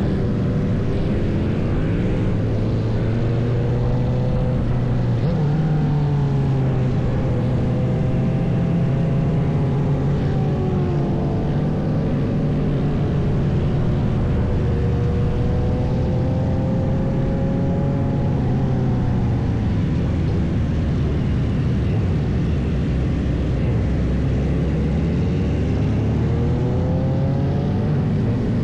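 Wind rushing over the microphone while riding a motorcycle, with the engines of vehicles in the group around it running and rising and falling in pitch as they speed up and slow down.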